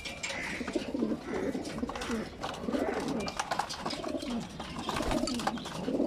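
Several racing pigeons cooing over one another in repeated low, swelling calls, with scattered sharp clicks and taps among them.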